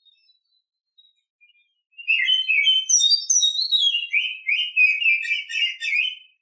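Oriental magpie-robin (kacer), billed as a female in breeding condition, singing. A few faint scattered notes are followed, about two seconds in, by a loud, rapid, varied phrase of whistles and chirps that runs for about four seconds.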